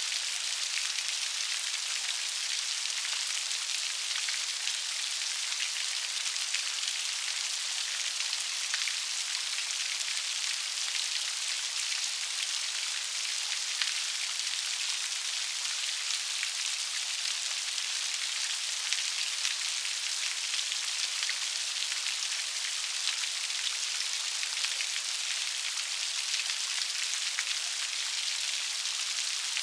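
Steady rain with many fine drops pattering, an even hiss with no let-up.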